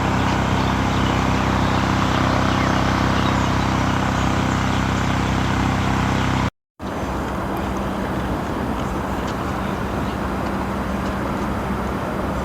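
Steady low mechanical hum of vehicle engine noise with a haze of traffic-like noise, cutting out completely for a moment about six and a half seconds in; afterwards the low hum is thinner.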